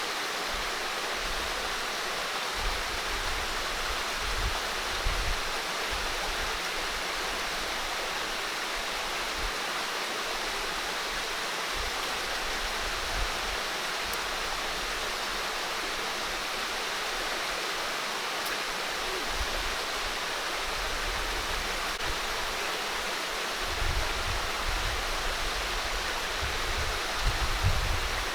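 Steady rush of water, an even hiss with no break. Low rumbling bumps come and go underneath and grow more frequent near the end.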